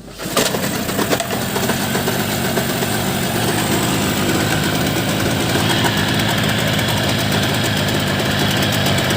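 15 hp outboard boat motor starting up, firing unevenly for about a second, then settling into a steady idle.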